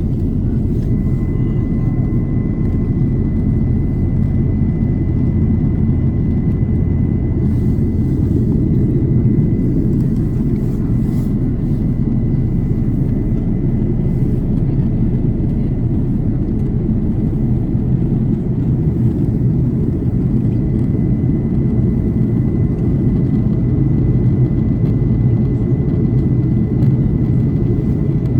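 Steady low cabin roar of an Airbus A330 airliner in descent: engine and airflow noise, with a faint high steady tone over it.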